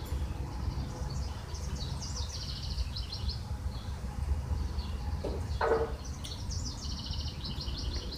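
Small birds singing rapid high trills in two stretches over a low steady rumble, with one short, lower call about five and a half seconds in.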